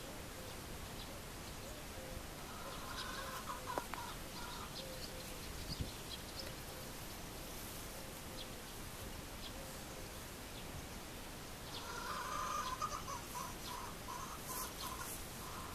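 Outdoor ambience with birds calling: a run of repeated calls about three seconds in and another from about twelve seconds on, with thin high chirps in between. Two short knocks stand out, about four and six seconds in.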